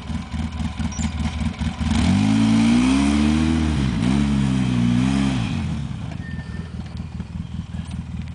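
Polaris 800 ATV engine idling with a pulsing beat, then revved for a few seconds from about two seconds in: the pitch climbs, dips briefly, holds, and drops back to idle about six seconds in.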